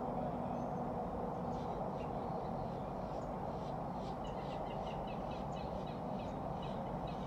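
Small birds chirping in quick, short high notes, coming in about halfway through, over a steady low background rumble.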